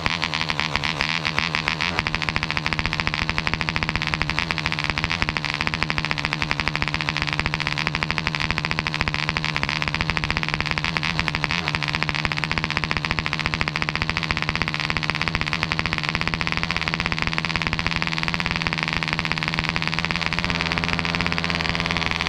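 Webra 1.5cc model airplane diesel engine throttled back, running slowly near idle with a rapid, steady firing pulse.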